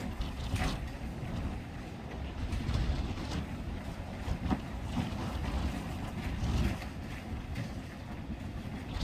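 Typhoon wind gusting, with a low rumble that swells and eases, and rain, with scattered sharp taps of drops.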